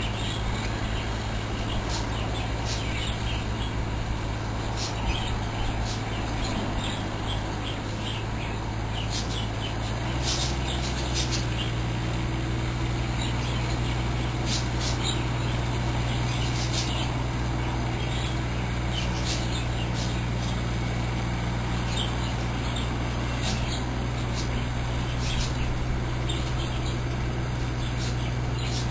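Small bird chirping in short, scattered calls over the steady low hum of a running vehicle; the hum changes about ten seconds in.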